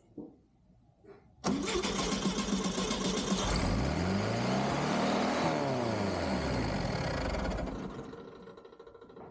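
1969 Volkswagen Beetle's air-cooled flat-four engine firing up on fuel poured into the carburetor bowl: it catches suddenly about a second and a half in, revs up and back down, then fades away near the end.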